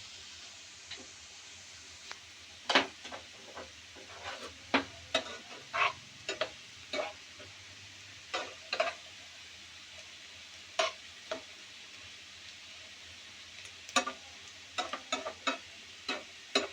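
Food frying in a pan with a steady sizzle, stirred with a spatula or spoon that scrapes and knocks against the pan in short clusters of strokes, the loudest about three seconds in.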